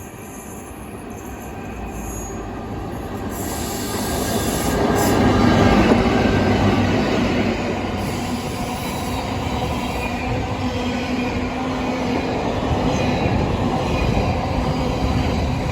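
A train passing through the station on the main line, growing louder over about six seconds as it approaches, then a steady, sustained rumble of wheels on rail as it runs by.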